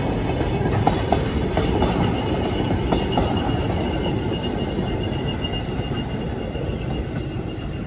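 Loaded cattle wagons of a freight train rolling past: a steady rumble of wheels on rail, with a few sharp wheel clicks in the first three seconds. A thin, high wheel squeal sets in about a second and a half in and carries on, and the rumble eases slightly near the end.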